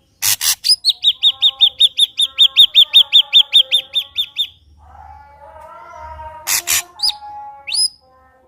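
Ashy drongo singing: a short harsh note, then a fast run of about twenty clear repeated whistled notes, roughly six a second, followed by softer warbling, a second harsh note and two quick rising whistles.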